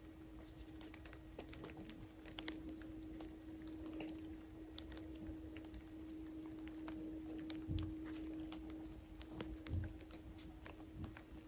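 Faint scattered ticks and light rustles over a steady low hum, with a few brief high chirps and two soft low thumps in the second half.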